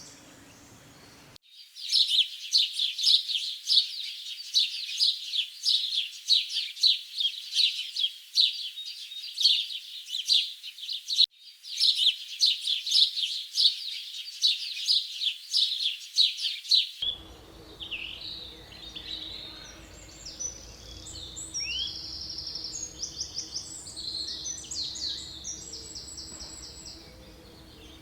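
Forest birds singing and chirping: a dense stream of rapid, high chirps that stops abruptly about 17 seconds in. Scattered, varied calls and trills follow over a low steady hum.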